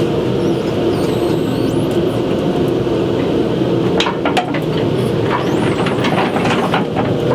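Opal mining machinery running underground: the revved-up blower and the digging machine make a loud, steady drone with a hum in it, and irregular sharp clacks and knocks, a cluster about four seconds in and more near the end.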